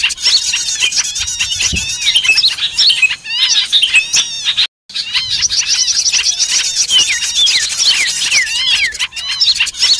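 A noisy chorus of many small birds calling over one another, with rapid chirps, trills and sweeping whistled notes. This is a bird-lure recording made to draw in small wild birds. The sound cuts out completely for a split second near the middle.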